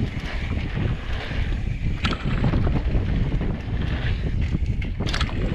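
Wind buffeting the microphone over the rumble of mountain bike tyres rolling down a dirt trail, with a sharp rattle about two seconds in and again near the end.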